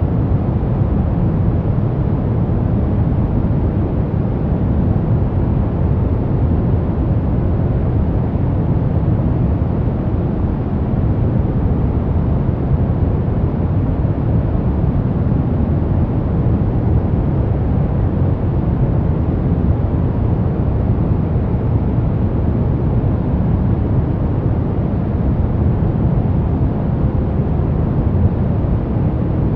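Steady, unbroken noise from a sleep and relaxation track sold as white noise. It is weighted toward the low end, a deep even rush with little treble, and it does not change.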